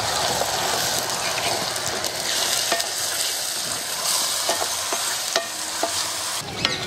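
Ground masala paste and onions sizzling in hot oil in a kadai while being stirred with a wooden spatula: a steady frying hiss.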